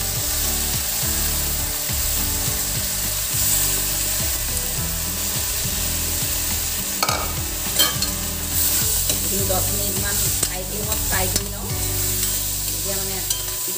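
Soaked corn grits frying in hot oil in a stainless steel pot, sizzling steadily while a steel ladle stirs them. In the second half the ladle scrapes and clinks against the pot a few times.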